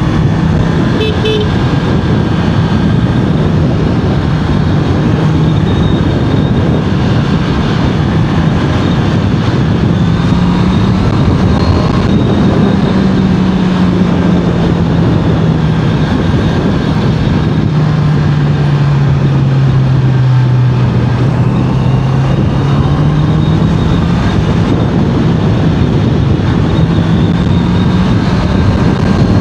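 Honda CBR650R inline-four running at road speed, its note easing down for a few seconds past the middle and then climbing back, under heavy wind and road noise. A short horn beep sounds about a second in.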